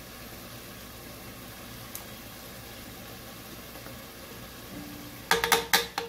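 Onion-tomato masala base sizzling quietly and steadily in a steel pot. Near the end a spoon strikes and scrapes the pot in a quick run of sharp knocks as stirring begins.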